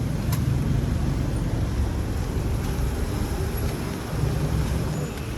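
Street traffic: motor vehicle engines running nearby, heard as a steady low rumble.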